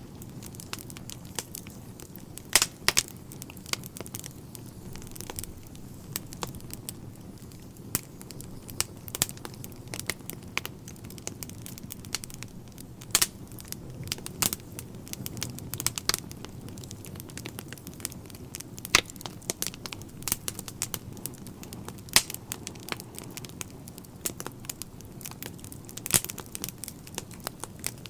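Wood fire burning in a fireplace: a steady low rumble of flames with irregular sharp crackles and pops from the burning logs, a few of them much louder than the rest.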